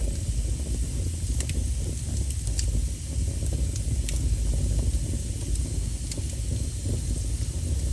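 Wood fire burning with a steady low rumble and hiss, broken by a few sharp crackling pops.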